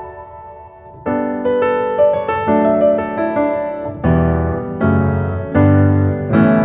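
Background piano music: soft notes that fall quieter for about the first second, then fuller chords that change every half-second to second.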